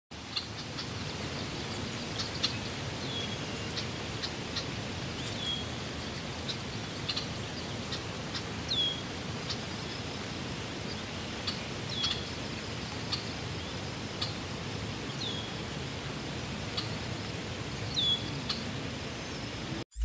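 Outdoor ambience: a bird repeats a short, high, falling call every two to three seconds, with other faint chirps, over a steady rushing background noise.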